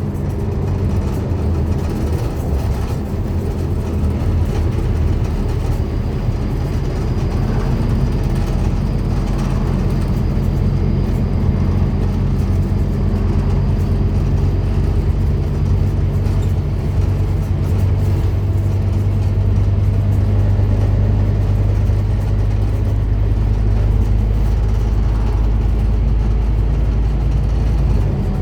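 Scania N230UD double-decker bus's five-cylinder diesel engine heard on board, pulling steadily under way with a low drone over road noise. The drone holds a steady pitch and grows a little louder from a few seconds in.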